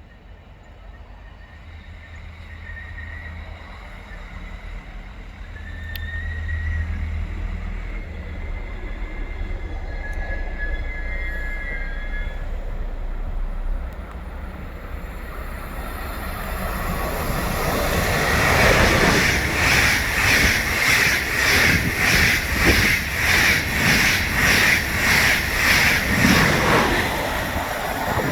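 A train approaching and passing close by: a low rumble builds, with a faint high squeal of wheels on rail in the first half, then the loud rush of the passing cars beats about twice a second as the wheelsets go by.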